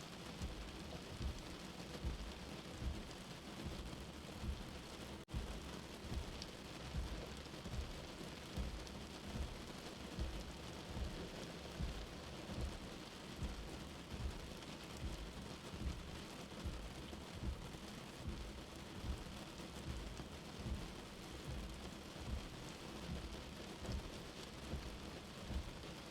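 Steady rain with a slow heartbeat thumping underneath, about one beat a second. The sound drops out for a split second about five seconds in.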